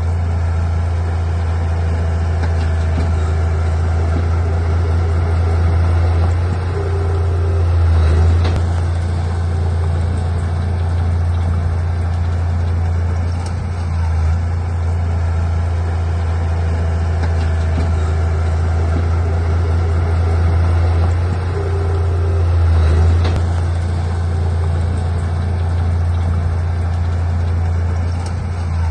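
Heavy diesel engine of earthmoving machinery running steadily with a deep drone, swelling briefly in loudness a couple of times.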